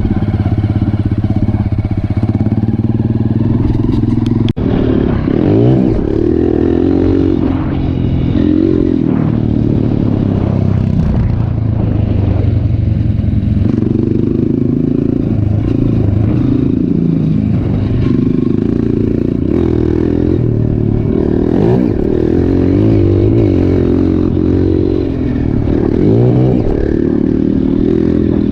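Trail motorcycle engine running under load, its pitch rising and falling repeatedly as the throttle is worked.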